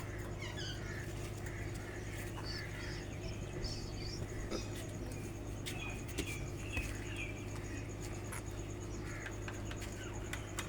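Parrots giving short chirping calls in scattered groups, over a steady low hum.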